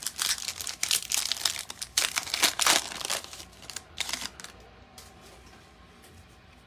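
Plastic trading-card pack wrapper being torn open and crinkled in the hands, a dense run of crackles for about three seconds with a few more about four seconds in, then quiet handling.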